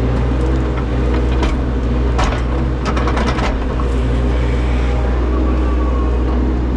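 Engine running steadily at a constant low speed, with a quick run of clicks and rattles a couple of seconds in.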